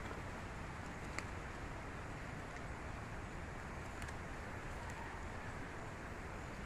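Steady rustling hiss of someone moving through forest undergrowth, with a couple of faint sharp clicks about a second in and around four seconds in.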